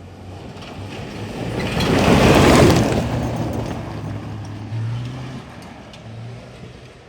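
Pickup truck driving hard on a dirt course, its engine running steadily under a loud rush of tyre and dirt noise that swells to a peak about two and a half seconds in, then fades.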